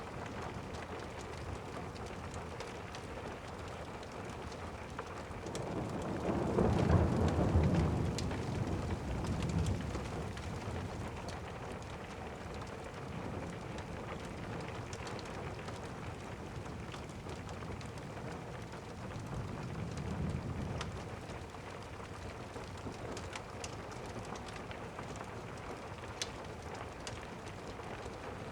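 Steady rain with thunder: a low rolling rumble swells about six seconds in and dies away over the next few seconds, and a fainter rumble follows around twenty seconds in.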